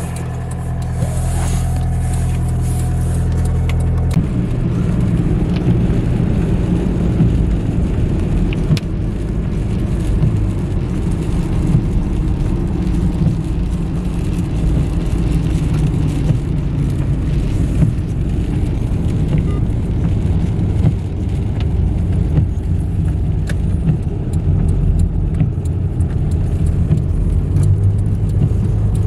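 Car engine running steadily at idle for about four seconds, then a rougher, continuous low rumble as the car drives on the road.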